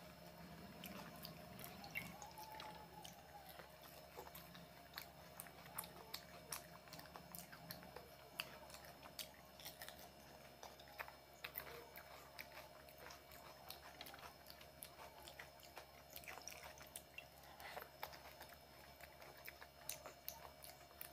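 Faint chewing and crunching of fuchka (pani puri): crisp puffed shells bitten and chewed wet with tamarind water, with many small sharp clicks and crackles. A faint steady hum runs underneath.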